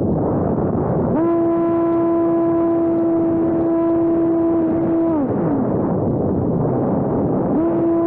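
Small electric RC plane's brushless motor and propeller spinning up to a steady hum, held for about four seconds, then throttled down with a falling pitch and run up again near the end, over loud wind noise on the microphone.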